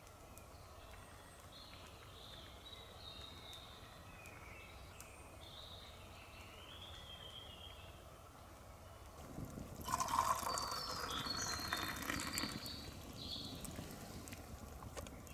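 Faint bird calls over a low steady background. About nine seconds in, a louder crackling, rustling noise starts and runs for several seconds.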